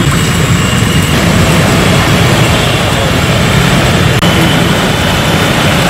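Steady, loud noise of heavy rain over a waterlogged street, with a low rumble underneath.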